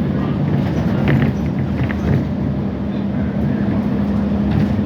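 Metro train running: a steady rumble with a constant low hum.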